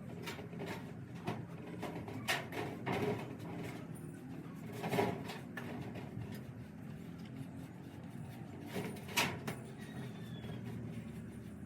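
A few scattered knocks and scrapes, the loudest about 5 and 9 seconds in, over a steady low hum.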